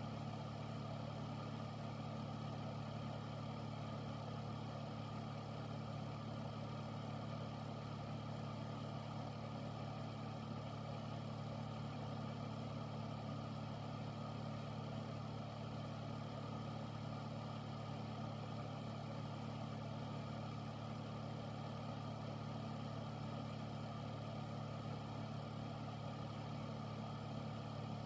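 Air filter (air purifier) fan running steadily: a low, even hum under a constant rush of air.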